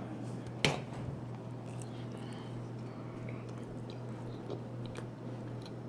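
A person biting into and chewing a soft monkey bread muffin, with one sharp click under a second in and faint small mouth sounds after.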